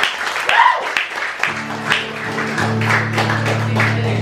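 Audience clapping after a song. About a second and a half in, a guitar comes in with low, held notes that ring under the last of the applause.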